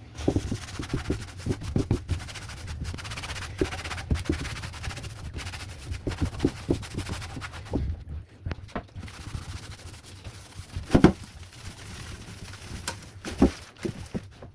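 Scattered clicks and knocks of objects being handled during cleaning, over a low steady hum, with a louder knock about three quarters in and another near the end.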